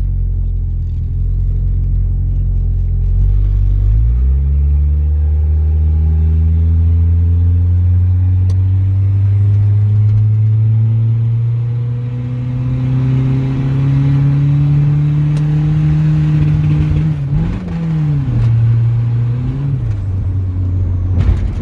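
Turbocharged Honda Civic four-cylinder engine pulling under acceleration: after a few seconds of steady running, the revs climb slowly and smoothly for about thirteen seconds, dip and rise briefly, then settle back to a steady lower drone near the end.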